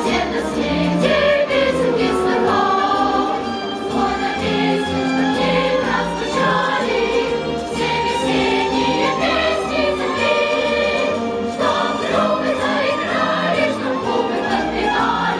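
Choral singing with musical accompaniment.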